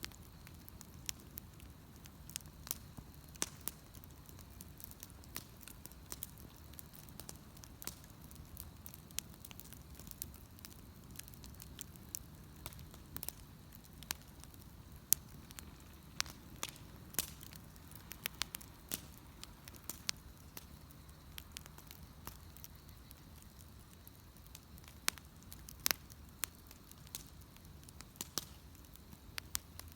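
Bonfire crackling, with irregular sharp pops, some louder than others, over a low steady rumble.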